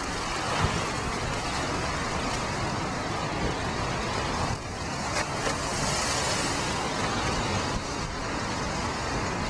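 Strong storm wind buffeting the microphone over the steady wash of large storm waves on a lakeshore: a continuous rushing noise with a deep rumble.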